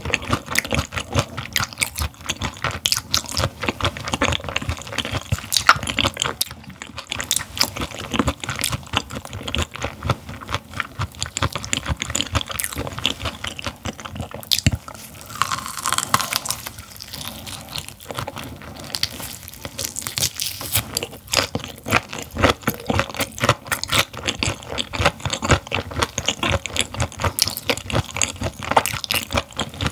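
Close-miked chewing of raw gizzard shad: a steady, irregular stream of crisp crunches and wet mouth sounds.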